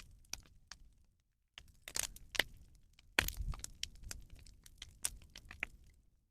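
Rubbish burning on a bonfire, crackling with irregular sharp pops and snaps.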